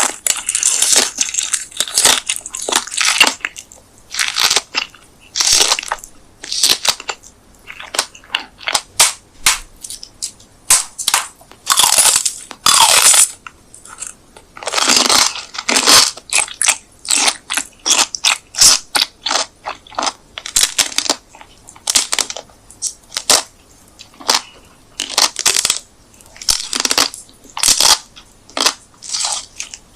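Close-miked crunchy food being bitten and chewed: a long irregular run of crisp crunches, each lasting a fraction of a second, with a few longer grinding crunches along the way.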